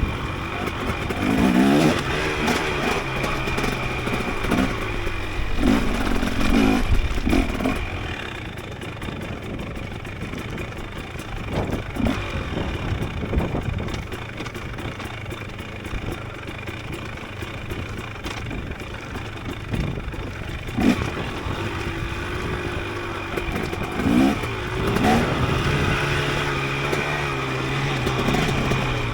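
Dirt bike engine revving up and down as it rides a rough trail, with a few sharp knocks from the bike over the ground.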